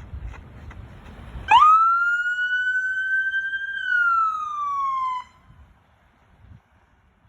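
Police car siren sounding one wail. It sweeps up quickly about a second and a half in, climbs slowly for about two seconds, then falls away and cuts off suddenly about five seconds in.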